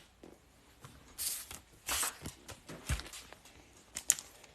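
Trading cards and their packaging being handled: a few short rustles and light ticks.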